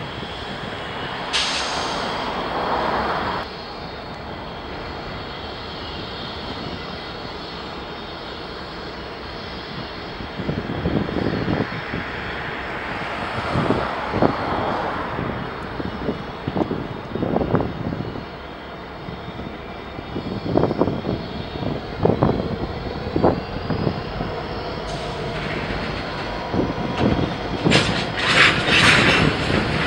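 Freight train moving slowly in a switching yard: a steady diesel locomotive drone with irregular clanks and knocks from the railcars, coming thicker in the second half, and a brief high-pitched screech near the end.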